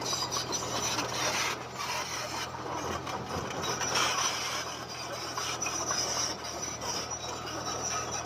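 Komatsu D20P bulldozer at work: its diesel engine runs steadily under a continuous grinding, scraping clatter of steel tracks and pushed stone.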